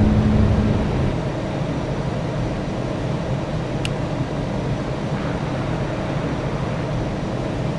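Steady rumble of an Airbus A330's engines and airflow heard inside the cabin as the airliner taxis before take-off. A low hum fades out about a second in, and there is one short click near the middle.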